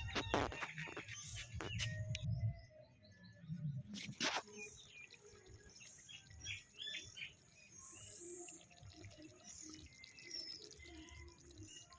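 Small birds chirping repeatedly, with a few sharp clicks or knocks in the first second and another about four seconds in.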